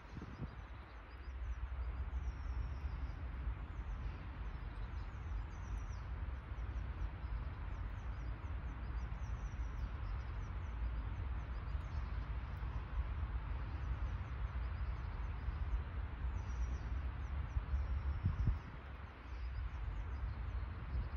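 Small birds chirping, many short high calls, over a steady low outdoor rumble.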